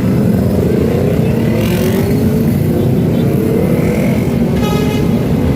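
Engines of a street convoy of motor vehicles passing close: a loud, steady engine drone with pitch rising in several glides as they accelerate. A short high tone sounds near the end.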